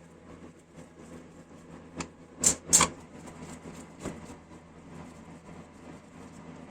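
A few sharp knocks or clinks, the two loudest about a third of a second apart, a smaller one just before them and another about a second and a half later, over a faint steady hum.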